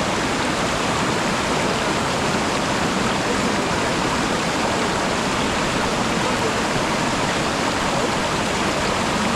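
Waterfall: falling water rushing steadily, with no let-up.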